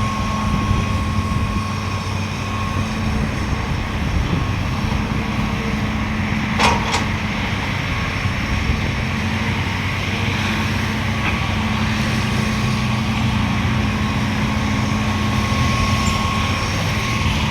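Heavy diesel engines of a dump truck and an excavator running steadily, with a faint steady whine and two sharp knocks about seven seconds in.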